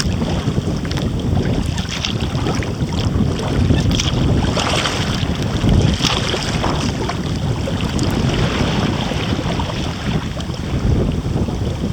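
Wind buffeting the microphone of a small action camera fitted with a furry windscreen, a steady gusting rumble, with water splashing and lapping around a kayak in scattered short splashes.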